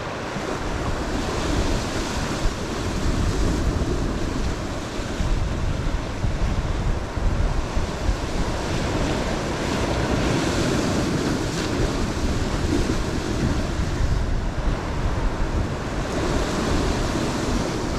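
Ocean surf washing against a rock ledge, swelling and easing, with wind rumbling on the microphone.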